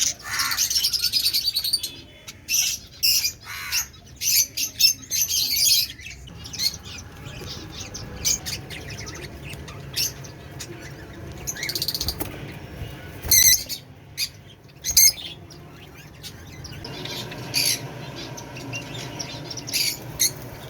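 A mix of caged pet birds chirping and calling. Quick high chirps come thick and fast at first, then thin out to scattered calls, with a few sharper, louder ones about two-thirds of the way through.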